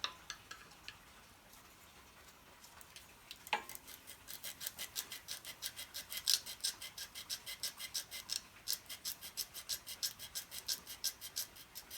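Sandpaper being rubbed back and forth between the ignition contact-breaker points of an old Honda generator engine, to clean the dirty points that are suspected of causing its lack of spark. After a few light clicks and a knock, quick scratchy strokes start about four seconds in, about five a second.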